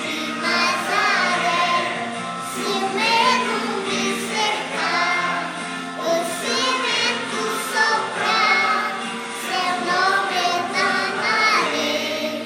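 A Christian song plays: high voices sing with vibrato over steady instrumental accompaniment.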